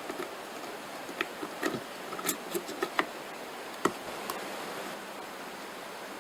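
Light clicks and knocks of hand work on parts, about a dozen spread irregularly over the first four seconds, over a steady hiss.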